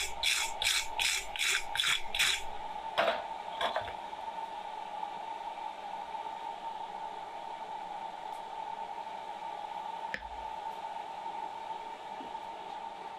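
Coal forge fire being cleaned out: about seven quick scraping strokes of a tool through the fire in the first two seconds, then two knocks, over the steady hum of the forge's air blower.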